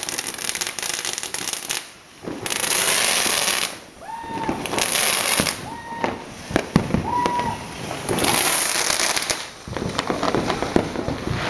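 New Year's fireworks and firecrackers going off: rapid crackling throughout, two long loud hisses, and several short whistles that rise and then hold a steady pitch.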